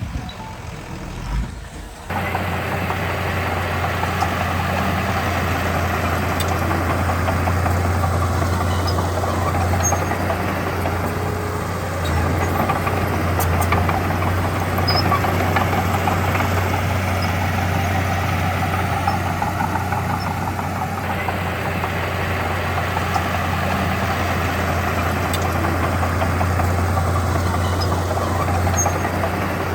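Heavy diesel engine of earthmoving machinery running steadily with a low hum, coming in suddenly about two seconds in.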